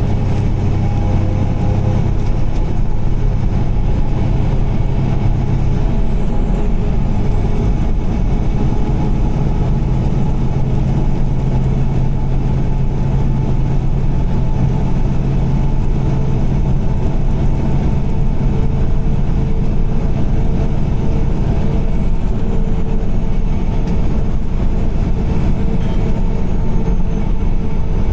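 Car driving on a highway: a steady, loud drone of engine and tyre noise, heaviest in the low range, with a low hum that shifts slightly in pitch over the stretch.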